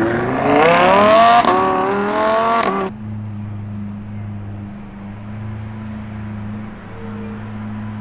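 Sports car engine accelerating hard, its pitch climbing steeply with a brief break about one and a half seconds in. The sound cuts off sharply near three seconds, and a steady low engine hum continues after it.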